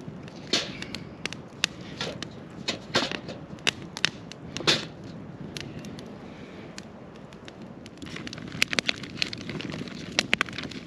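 Wood campfire crackling: irregular sharp snaps and pops over a steady low hiss of burning, coming thicker after about eight seconds.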